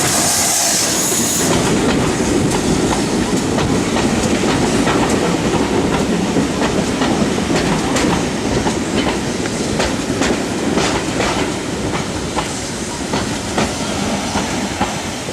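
Train rolling past, its wheels clicking steadily over the rail joints, with a brief high hiss in the first second or so; it fades slightly near the end.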